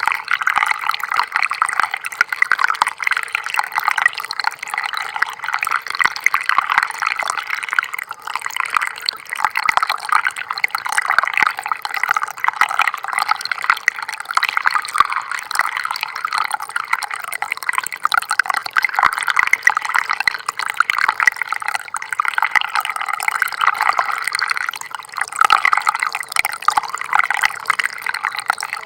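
Small stream of water trickling and gurgling steadily, a busy bubbling with no pauses.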